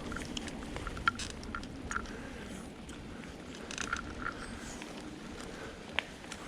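Bicycle riding along a dirt forest trail: irregular small clicks, crackles and rattles from the tyres and bike over ground and debris, over a steady low rumble.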